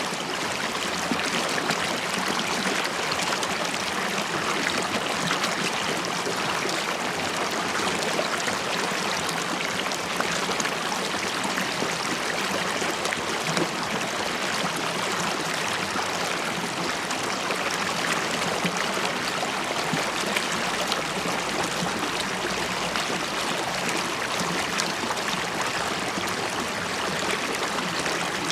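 River water flowing and bubbling steadily over stones, a continuous rushing babble with small gurgles.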